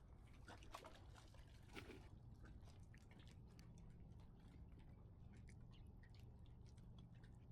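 Near silence: faint low background hum with a few scattered faint ticks.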